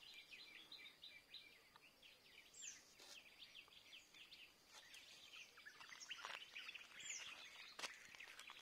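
Faint birdsong: a dense run of quick falling chirps, with a few higher falling whistles now and then. A few sharp clicks stand out, the loudest near the end.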